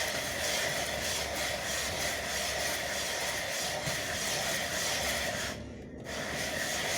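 Honda Tornado motorcycle cylinder head being rubbed back and forth over sandpaper fixed to a flat ceramic tile: a steady scraping sanding sound, with a brief pause about five and a half seconds in. The head's gasket face is being lapped flat because warping made it leak at the exhaust side.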